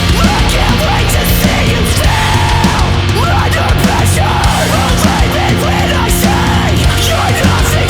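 Loud heavy rock song with distorted electric guitars and drums, in a heavy metal/punk style.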